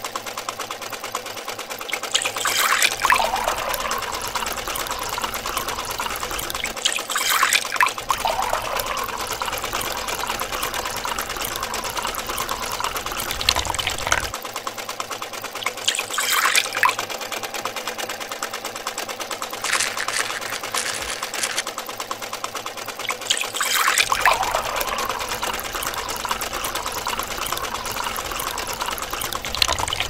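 Small DC motor whirring steadily as it belt-drives a miniature grinder, with green liquid trickling from the spout into a small bucket. Brief louder bursts break in every few seconds, about six times.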